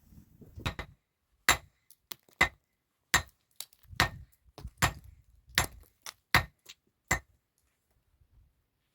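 A run of nine sharp clinking strikes, hard object on hard object, coming evenly about once every three-quarters of a second and stopping about seven seconds in.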